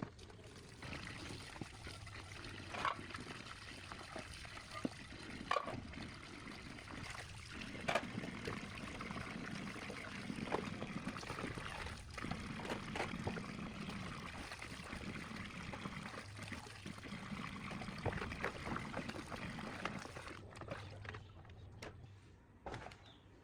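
Water trickling and pouring steadily, with scattered sharp clicks and knocks, thinning out near the end.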